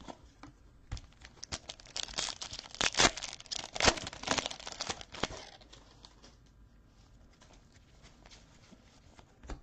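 Crinkly plastic trading card pack wrapper being torn open and crumpled, a dense burst of crackling for a few seconds, loudest around the middle, then a few scattered small crackles.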